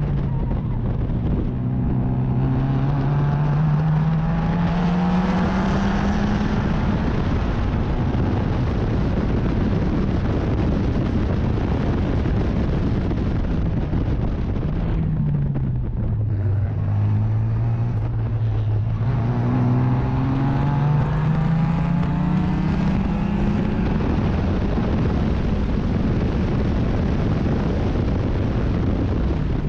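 Race car engine under load, its revs climbing steadily for several seconds. About halfway through the revs fall and the sound dips briefly as the driver lifts, then the engine pulls and climbs again. Heavy wind and road noise run under it.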